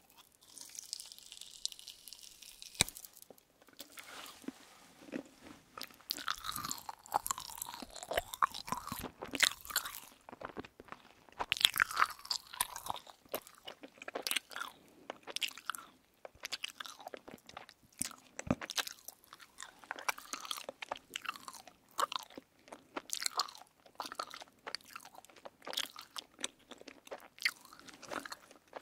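Close-miked biting and chewing of a marshmallow that has gone stale and hard from being left in an opened package: irregular crisp crunching and crackling as it breaks and is chewed.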